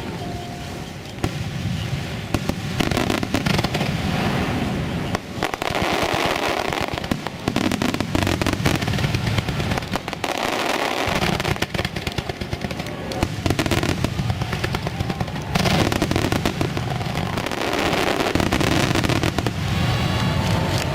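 Aerial fireworks display: a near-continuous run of bangs and crackling from bursting shells, with brief lulls a few times.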